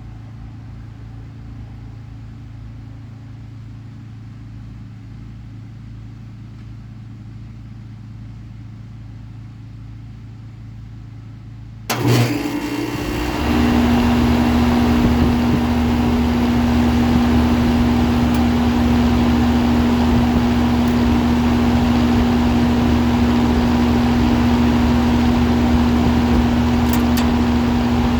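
2005 Lennox Elite air conditioner starting up: a low hum for about twelve seconds, then a sudden kick-on about halfway through that settles into a loud, steady run with a strong hum.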